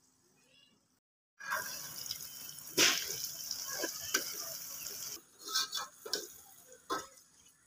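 Potatoes frying in masala in an aluminium pot, a steady sizzle from about a second and a half in until about five seconds, with a steel ladle scraping and knocking against the pot as it stirs. Near the end there are several separate short knocks of the ladle.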